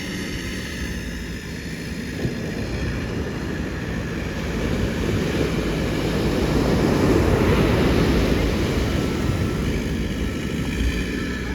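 Ocean surf, with a wave breaking and rushing up the beach, the rush swelling to its loudest about seven or eight seconds in and then easing. Wind buffets the microphone throughout.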